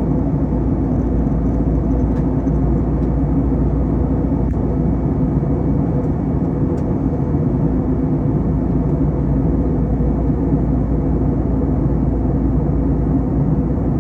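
Steady cabin noise of an Airbus A321 in flight: an even, loud rumble of engines and airflow, with faint steady tones above it.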